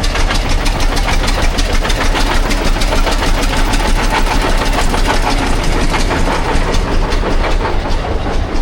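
Antique engine running at a steady speed with a fast, even knocking beat over a constant low hum.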